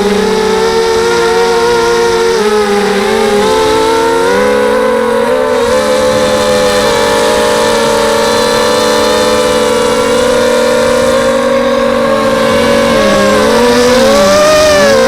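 Brushless motors and propellers of a 250-size FPV racing quadcopter whining in flight. Several tones at slightly different pitches rise and fall together as the throttle changes, climbing higher in the last few seconds.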